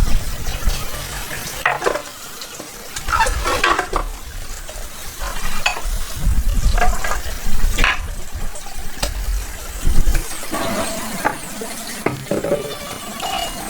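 Cooking sounds: a utensil stirring and scraping in a pan with food sizzling, in irregular scrapes and clicks, with a sharper knock about ten seconds in.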